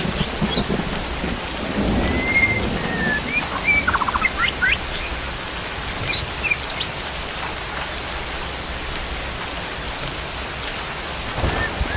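Steady rain with a low rumble of thunder in the first couple of seconds. Songbirds chirp and whistle in short, sliding notes over the rain, busiest in the middle and again near the end.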